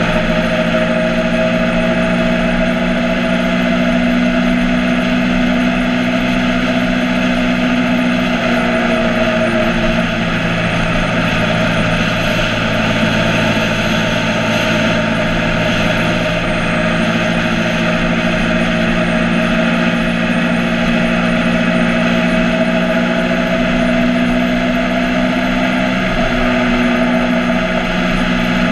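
Motorcycle engine running at steady revs, its hum holding nearly the same pitch throughout, with wind rushing over the microphone.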